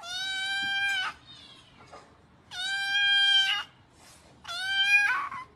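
A cat meowing three times, each meow a long, steady call of about a second.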